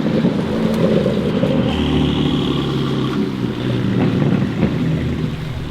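Loud exhaust of a modified sports car with its engine running, a deep, fairly steady drone that eases off slightly near the end.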